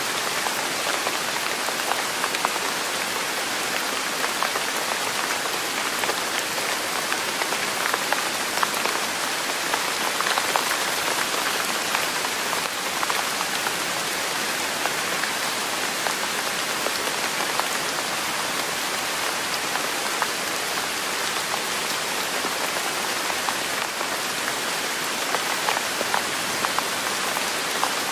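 Steady rain falling on a surface: an even hiss sprinkled with many small drop ticks, unchanging in level.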